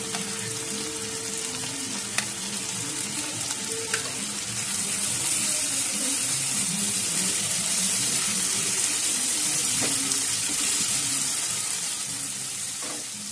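Potatoes, tomatoes and onion sizzling in hot oil in a non-stick kadai as garlic paste is added and stirred in with a spatula; the sizzle grows louder about four and a half seconds in. Two light clicks sound about two and four seconds in.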